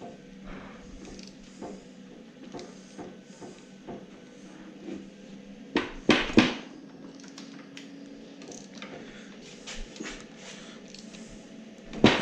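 Metal tools and engine parts clinking and knocking during an engine teardown, a run of small clicks with a few louder knocks about six seconds in and again near the end.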